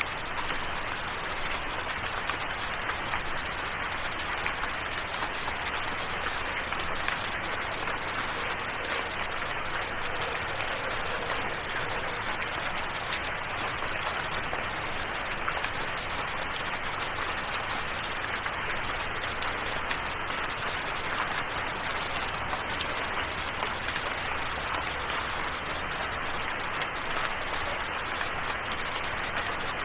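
Steady rain falling: an even hiss with scattered drop taps.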